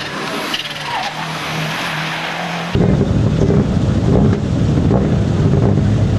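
Rally car engine noise with a rushing hiss, then an abrupt cut about three seconds in to a much louder, closer rally car engine running hard, its pitch edging up near the end.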